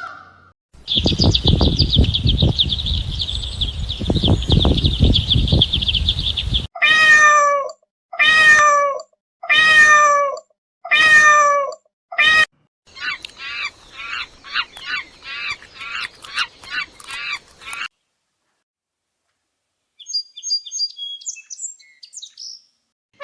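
A run of separate animal calls: after a loud noisy stretch for the first six seconds, a domestic cat meows five times in a row, each meow falling in pitch. A quick train of short high chirping calls follows, about two a second, then a few faint high chirps near the end.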